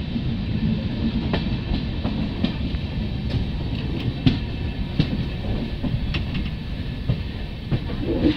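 Running noise of a moving passenger train heard from the open coach doorway: a steady low rumble of wheels on the rails, with sharp clicks about once a second.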